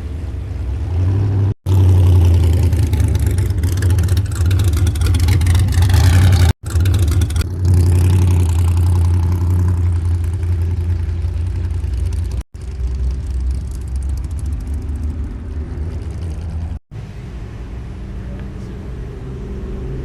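Car engines running with a heavy low rumble. In the first half, pitch sweeps rise and fall as an engine revs or passes. The sound breaks off abruptly four times, as short clips are cut together.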